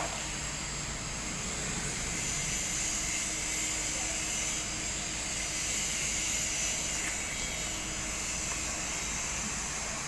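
Electric welding arc giving a steady hiss, even and unbroken throughout.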